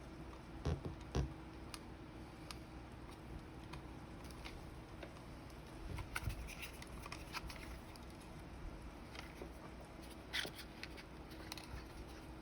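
Scattered light clicks, taps and knocks of small parts being handled while a flip clock is taken apart, over a faint steady hum; the loudest knocks come about a second in, around six seconds and around ten seconds.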